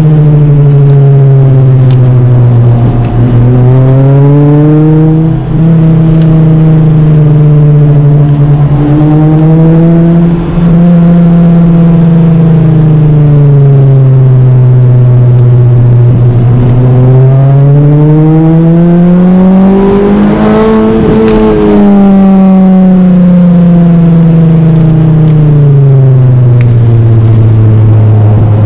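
Toyota Celica GT-S four-cylinder engine heard from inside the car, driven hard: loud, its pitch climbing as it accelerates and sinking as it lifts off, again and again. The highest climb comes a little past two-thirds of the way through, with a couple of brief drops in sound near the start.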